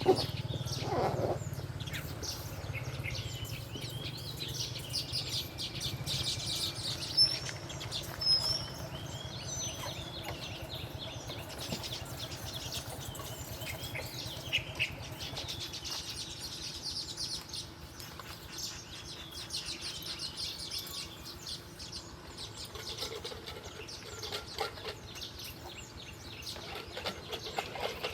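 Small birds chirping and twittering again and again in short, high calls, with a few brief rustles and flutters among them.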